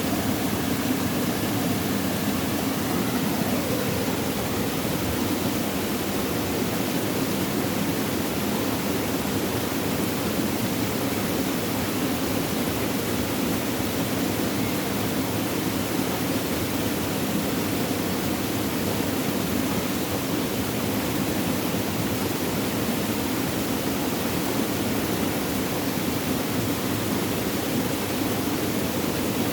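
Flowing water, a steady rushing and trickling.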